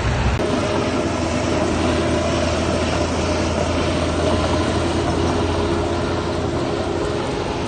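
Diesel engine of heavy earthmoving machinery running steadily under load, with a low even drone. The sound shifts about half a second in, then holds steady.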